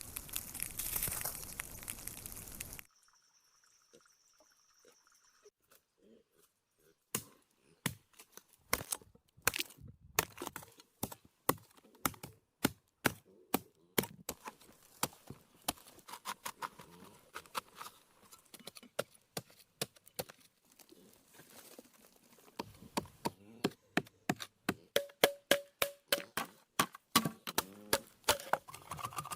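A rushing burst of noise for about three seconds, then, after a pause, a long run of sharp, irregular cracks and knocks that grow denser and louder near the end. They fit wood being snapped and chopped while a shelter is rebuilt.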